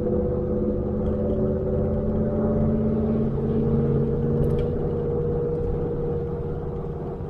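Ford F-150 with a Borla ATAK aftermarket exhaust cruising at a steady engine speed: a constant exhaust drone with road noise beneath, easing off a little near the end.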